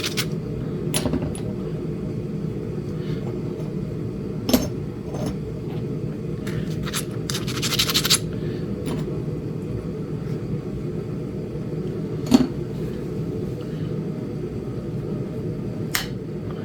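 Sharp, scattered clicks of stone being worked: strikes on a Flint Ridge chert biface while knapping a small point, the loudest two well apart, about four seconds in and near the end. A brief scraping about seven seconds in, over a steady low hum.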